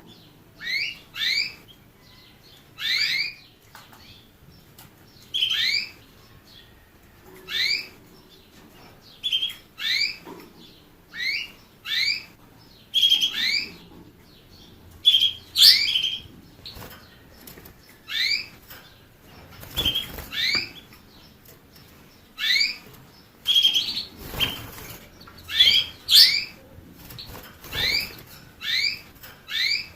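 A finch giving short, rising call notes, mostly in pairs, repeated every second or two.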